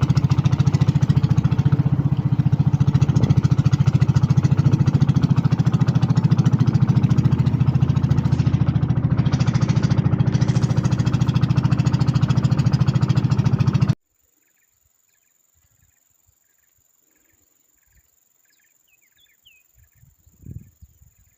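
Small ketinting longtail boat engine running steadily, a loud fast even chugging. It cuts off abruptly about two-thirds of the way in, leaving near silence with a few faint chirps and then some rustling.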